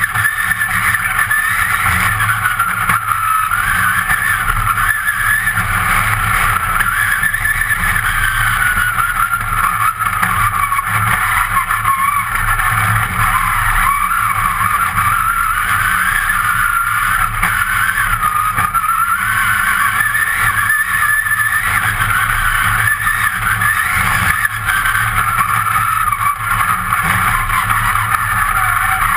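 Competition car's engine running hard at high revs, heard from inside the cabin, its pitch rising and falling again and again with no pause.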